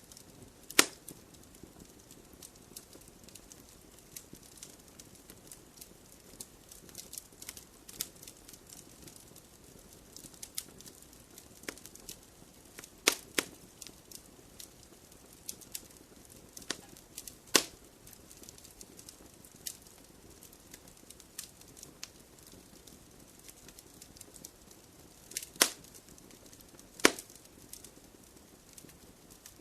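Wood fire crackling in a fireplace: a scatter of small ticks over a faint hiss, with a sharp loud pop now and then, the loudest about a second in and two close together near the end.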